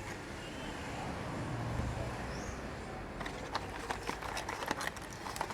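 A small cardboard box of replacement hydraulic tappets being handled and opened, with light clicks and rustles of packaging from about halfway through, over steady workshop background noise.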